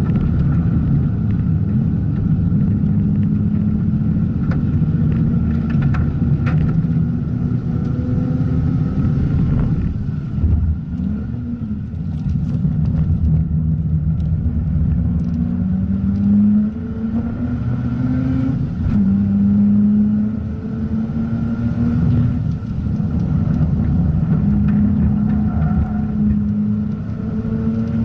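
Mazda RX-8's two-rotor Renesis rotary engine under hard track driving, its note climbing and dropping again and again as it revs through the gears and comes off the throttle.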